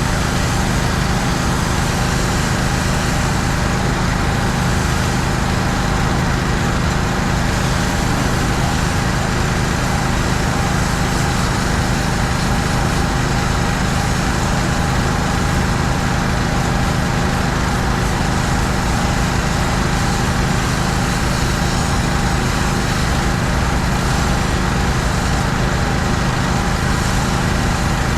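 Pressure washing: an engine runs steadily under an even, unbroken hiss of high-pressure water spray.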